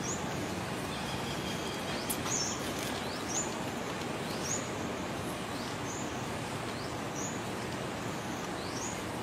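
Steady background noise with a small bird repeating a short, high, rising chirp about once a second.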